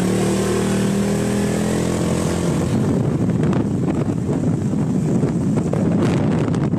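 Motorbike engine running while riding, a steady engine note for the first couple of seconds, then blurred by rough wind buffeting on the microphone.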